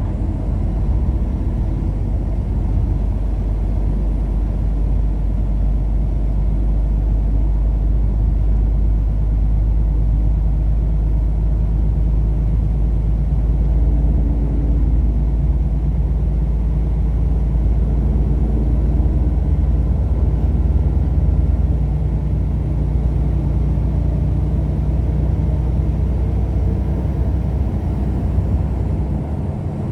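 Steady low rumble of a car on the move: engine and road noise with no sharp events.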